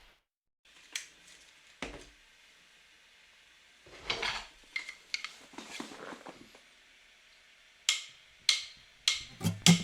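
Small hard objects being handled. There are single clicks about one and two seconds in, scraping and rustling in the middle, and a quick run of sharp clicks and taps near the end.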